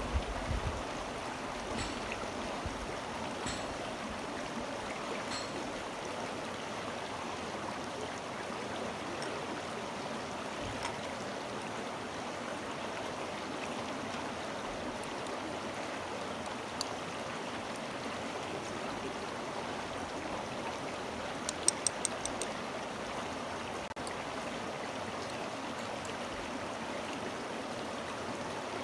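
A stream running steadily. A quick run of about five sharp clicks comes about two-thirds of the way through.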